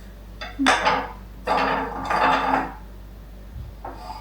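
Wooden spoon spun on a tabletop, rattling against the wood in two runs of about a second each.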